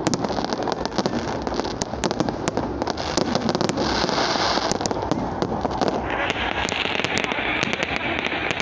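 Fireworks going off in dense, rapid crackling and popping. A hissing swell comes in about three and a half seconds in, and a steady hiss joins from about six seconds on.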